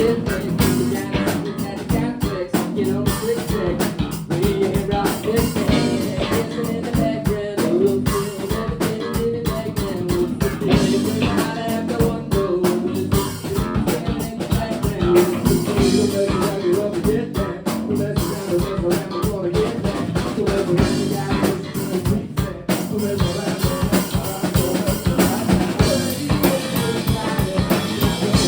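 Live band music: drum kit and electric guitar playing a steady beat, with some singing.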